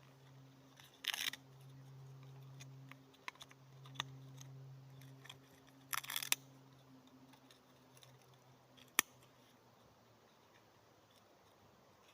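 Dry birch bark and kindling being handled and packed into a campfire: two short crackling rustles, about a second in and about six seconds in, scattered small ticks, and one sharp snap near nine seconds. A faint steady low hum runs underneath.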